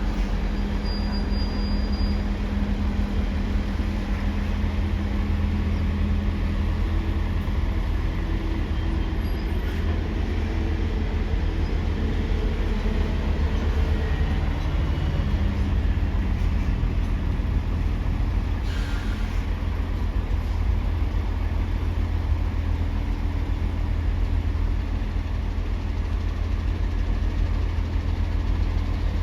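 Steady, low rumble of heavy diesel engines running, with a constant hum for the first half and a brief hiss about 19 seconds in.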